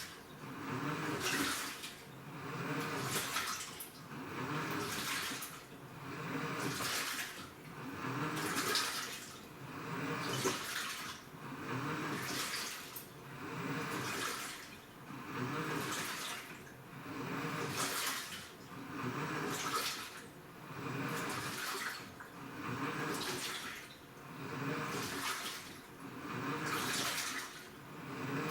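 Washing machine in its wash cycle, water sloshing back and forth in a steady rhythm, one swish about every two seconds.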